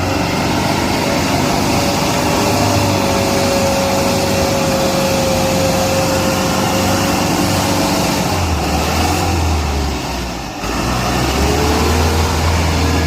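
Farm tractor engine running steadily at working speed. It eases off briefly about ten seconds in, then picks up again.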